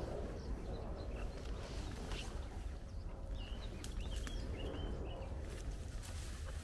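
A few short bird chirps about halfway through, with occasional light footsteps, over a steady low rumble.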